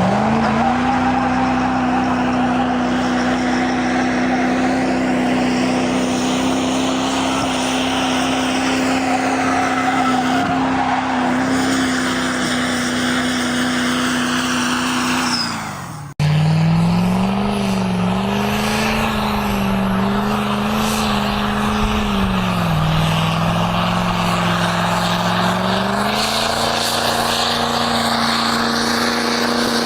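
Diesel truck engine revved up and held at high revs, running steadily. About halfway through, a cut starts a second stretch in which the revs waver, dip and then climb back to a steady hold.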